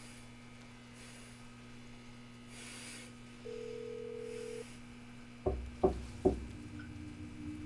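Three loud, sharp knocks in quick succession, falling within under a second near the end, over a low steady hum. A short steady beep sounds a little before them, and a low drone rises after them.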